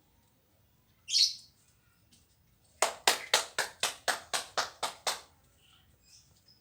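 Cucak ijo (green leafbird) calling: one sharp high note about a second in, then a fast run of about ten harsh, evenly spaced notes, about four a second.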